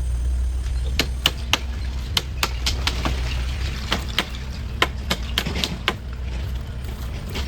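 A run of sharp knocks, irregular at two or three a second for about five seconds, over a steady low hum.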